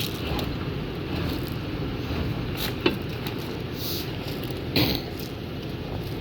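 Truck engine running steadily at low revs, with a sharp click about three seconds in and a short knock near five seconds.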